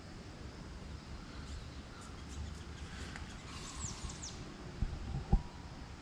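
Quiet outdoor background with a few short, high, falling bird chirps about midway, and two dull knocks near the end.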